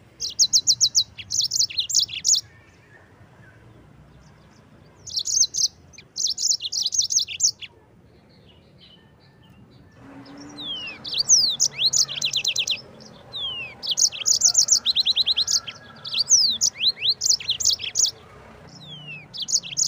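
Yellow-fronted canary (Mozambique finch) singing in bouts of very fast, high trills, with quick down-slurred notes mixed in during the longer bout in the second half.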